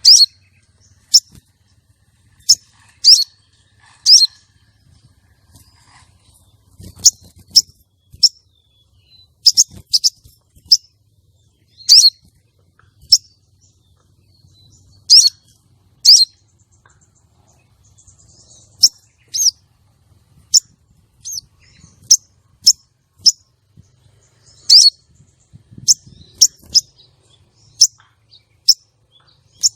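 Female sogon bird calling: short, sharp, high chirps repeated at uneven intervals, often in quick pairs, with a few seconds' pause now and then. This is the call used to lure a male sogon and bring him into breeding excitement.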